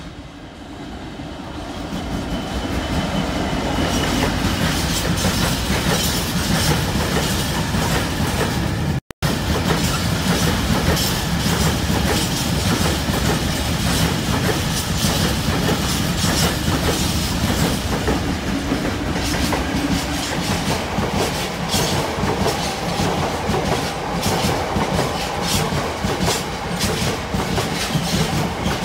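A train approaching and passing close by: the sound builds over the first few seconds into a steady rumble, with the wheels clicking over rail joints, the clicks sharper in the second half. There is a brief drop-out about nine seconds in.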